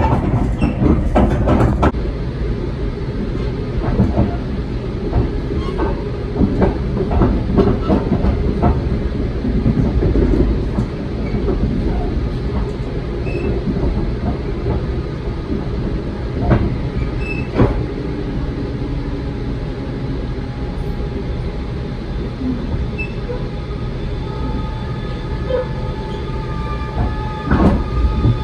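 Coaster commuter rail car heard from inside while moving: steady rumble of the ride with scattered rail clicks and rattles, and faint thin squealing tones near the end.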